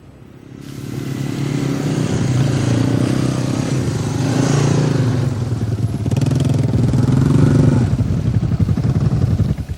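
An engine running, swelling over the first couple of seconds, holding steady with a fast even pulse, then cutting off abruptly near the end.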